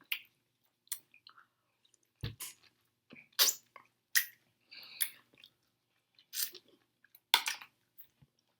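A person chewing raw lemon pieces: short, wet bites at an irregular pace, about one a second.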